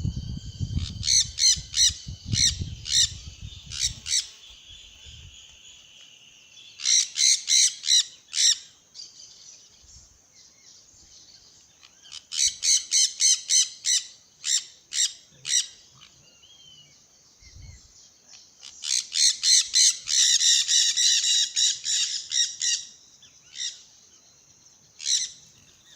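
A group of birds squawking with harsh, rapid, repeated calls that come in bursts several times, the longest and loudest burst about twenty seconds in.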